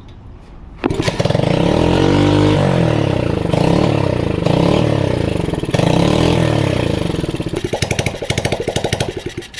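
A 125cc pit bike engine starts about a second in and runs, revving up and down repeatedly on its own with nobody working the throttle, then cuts off near the end. The unbidden revving was later traced to a throttle cable adjusted too tight and getting tugged.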